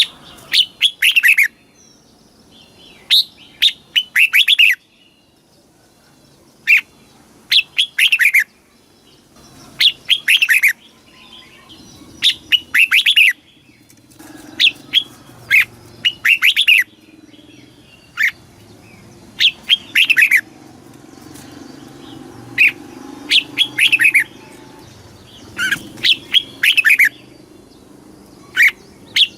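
Red-whiskered bulbul singing: short, quick phrases of a few whistled notes that fall in pitch, repeated every two to three seconds.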